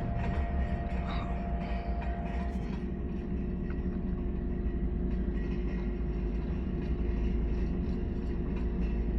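Steady low rumble with a constant droning hum from a nearby drilling rig working, unchanging throughout.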